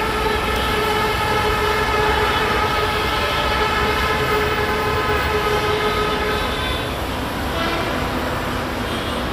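Container freight train running on curved track: a steady low rumble with several high, steady tones held over it that stop about six and a half seconds in.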